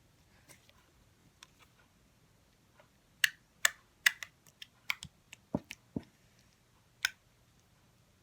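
Slime being squeezed and poked by hand, giving a quick, irregular run of sharp clicks and pops, mostly between about three and seven seconds in.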